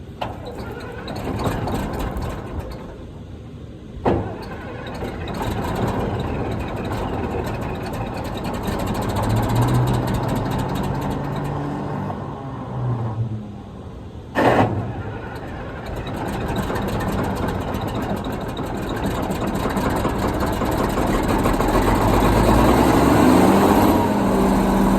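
Case 2670 tractor's diesel engine running, with the engine speed and loudness rising over the last few seconds as the tractor is moved forward. There are two sharp knocks, one about 4 seconds in and one about 14 seconds in.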